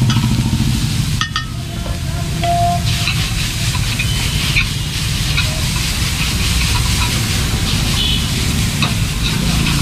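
Chopped vegetables sizzling on a large flat iron griddle while a metal spatula scrapes, stirs and clicks against the plate, over a steady low rumble.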